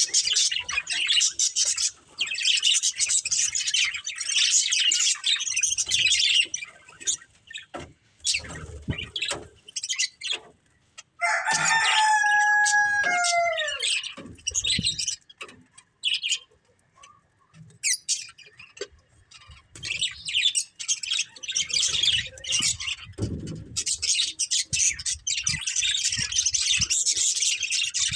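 Budgerigars chirping and chattering in a dense, high warble that thins out after about six seconds and picks up again from about two-thirds of the way through. Around the middle comes one longer, lower call that falls in pitch at its end.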